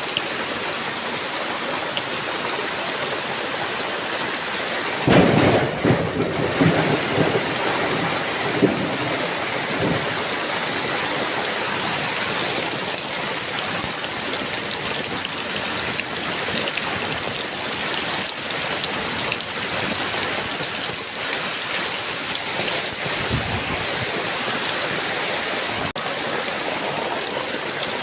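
Heavy rain falling steadily, with a sudden thunderclap about five seconds in that rumbles away over the next few seconds, and a fainter roll of thunder later on.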